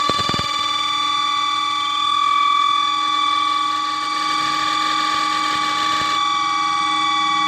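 Spin-dryer tub of an LG semi-automatic washing machine running with a loud, steady multi-pitched whine, plus a few knocks at the very start. This is the faulty noise that the repairer traces to the spin drum, not the motor.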